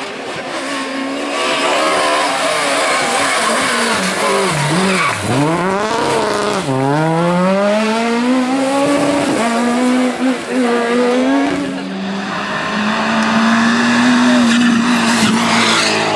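Rally car engine revving hard. The pitch drops sharply to a low point about five seconds in, climbs steeply again, holds high, dips once more and rises near the end.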